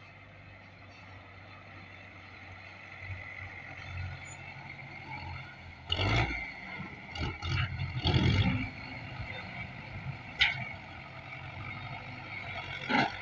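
Diesel tractor engine running, growing louder over the first few seconds, with several loud knocks and clatters about halfway through and a sharp click a little later.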